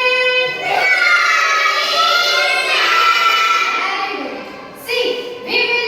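A class of young children chanting together in unison, in long drawn-out sing-song phrases.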